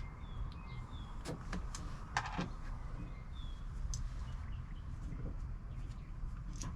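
Birds chirping now and then over a steady low rumble, with several sharp clicks and knocks from handling tools or parts; the loudest knock comes about two seconds in.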